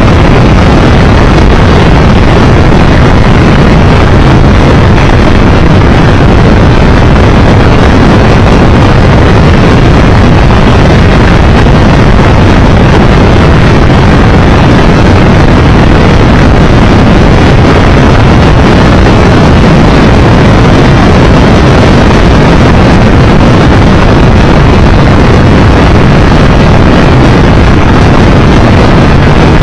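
Steady, loud wind rush over the microphone with engine and road noise from a Triumph 1200 Tiger Explorer motorcycle ridden at a constant speed.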